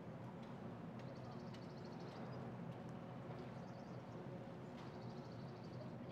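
Quiet outdoor ambience: a steady low background rumble with a small bird's high, rapid trills repeating several times.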